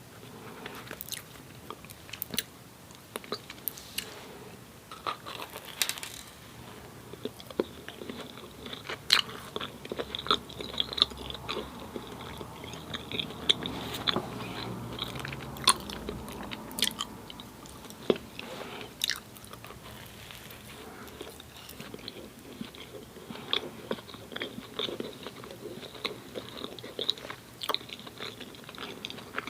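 Close-miked eating sounds of someone biting and chewing doughnuts: soft, wet chewing broken by frequent sharp mouth clicks and smacks.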